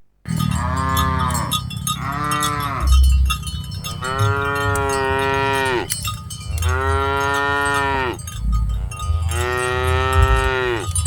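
Cattle mooing: five long moos one after another, each rising and then falling in pitch, the middle three the longest, with a low thump about three seconds in.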